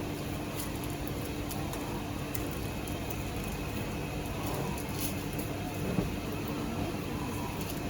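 Steady background hum with a faint low drone, and a couple of soft clicks about five and six seconds in.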